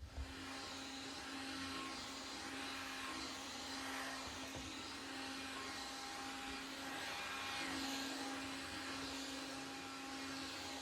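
Vacuum cleaner running steadily, with a constant motor hum. It switches on at the start and swells and fades slightly every couple of seconds.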